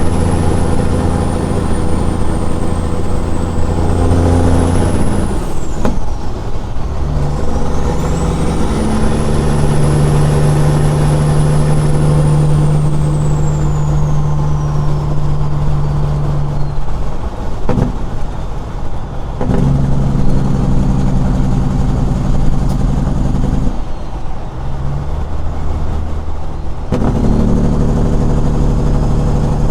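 Straight-piped Caterpillar 6NZ inline-six diesel in a semi truck, running loud under way. Its note breaks off and comes back at a new pitch about three times, as with gear shifts. A thin high whine rises and falls over the first half.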